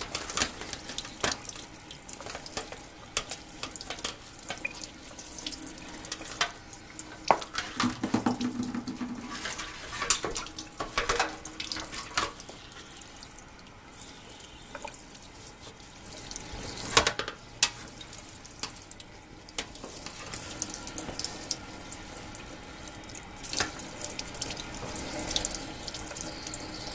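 Tap running into a sink while a furnace filter is washed under it: a steady rush of water broken by irregular splashes and knocks.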